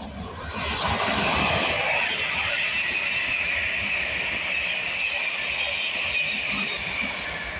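Passenger multiple-unit train passing through the station: a loud, steady rush of wheels on rail with a high-pitched ringing tone above it. It swells about a second in and eases slightly near the end.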